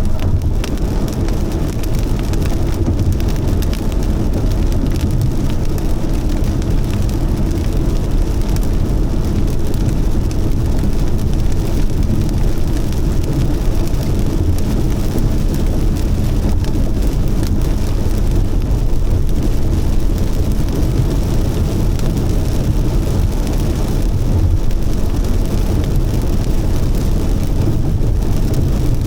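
Heavy rain falling steadily: a dense, even wash of noise with a strong low rumble under it.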